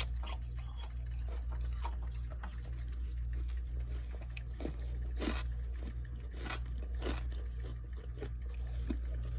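Someone biting and chewing crunchy frost in scattered crunches, over a steady low hum.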